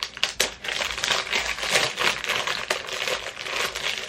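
Packaging crinkling and rustling with many small, irregular clicks as a perfume box and its wrapping are handled and opened.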